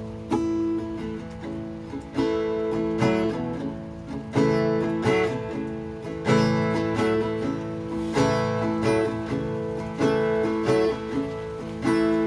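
Acoustic guitar strummed and picked, with a strong chord about every two seconds and single plucked notes between: an instrumental intro leading into a song.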